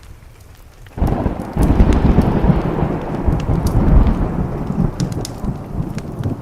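A thunderclap breaks about a second in and rolls on as a deep rumble, slowly fading, over steady rain and the light crackle of a wood fire.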